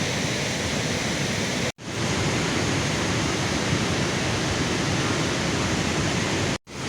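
Heavy rain falling in a storm, a steady loud hiss. It cuts out abruptly twice for a moment.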